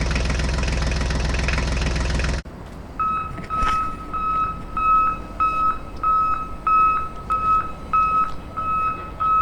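A vehicle engine running steadily, which cuts off abruptly about two and a half seconds in. A reversing beeper follows, sounding one steady high beep about twice a second.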